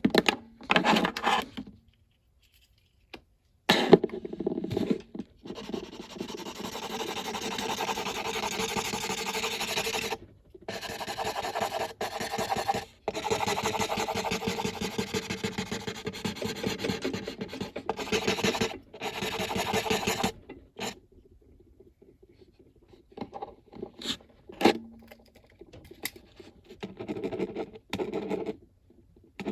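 A coloring tool rubbing fast back and forth on paper, filling in a drawing in long runs of quick scratchy strokes. It breaks off a few times, pauses about two-thirds of the way through, and goes on in shorter bursts near the end.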